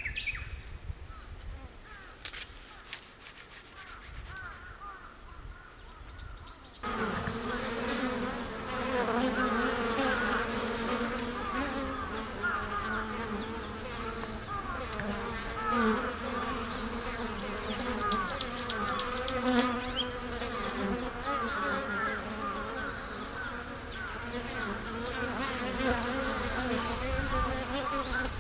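Many bees buzzing together, a dense steady drone of overlapping wavering hums, starting abruptly about seven seconds in. Before that, only faint outdoor sound with a few light clicks.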